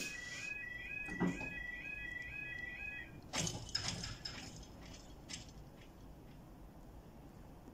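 Level crossing warning alarm warbling in a repeating pattern, about two cycles a second, that stops about three seconds in, as the train has cleared the crossing; a few short clatters and knocks follow.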